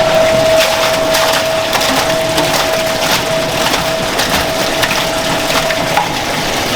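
Food-processing work noise: many sharp clicks and crackles over a dense hiss, with a steady machine whine that stops about six seconds in.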